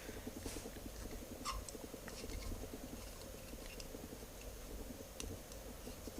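Faint handling noise: scattered light clicks and taps of a small plastic object being turned over in the hands, over a low steady background crackle.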